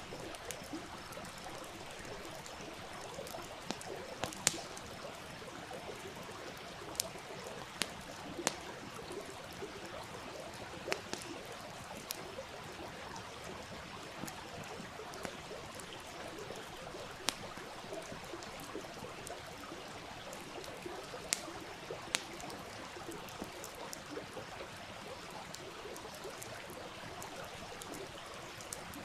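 A stream running steadily, with a wood fire crackling over it in sharp, scattered pops.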